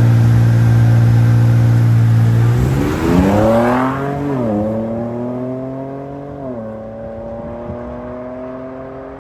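Car engine held at one steady pitch for nearly three seconds, then accelerating hard. The revs climb, drop sharply at a gearshift about four and a half seconds in, climb again and drop at a second shift about two seconds later, and the sound fades as the car pulls away.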